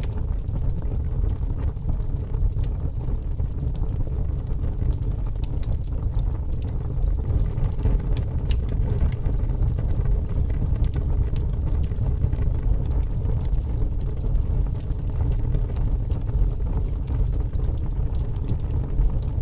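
Fire burning with a steady low rumble and frequent irregular crackles and pops.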